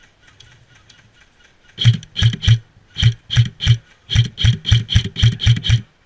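An airsoft gun fired close by, thirteen single shots in quick succession: three, then three more, then a faster string of seven, each a sharp mechanical pop.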